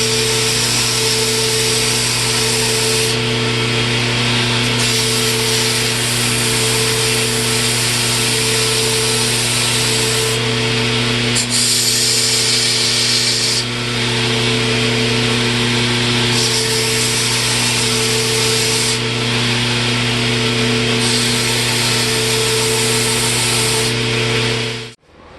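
Electric power tool running steadily with a constant motor hum, its higher grinding or sanding noise swelling and easing every few seconds as the work is pressed to it. It cuts off abruptly near the end.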